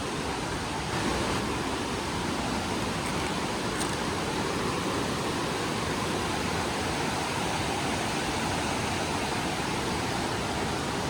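Steady rushing of falling water, a little louder from about a second in.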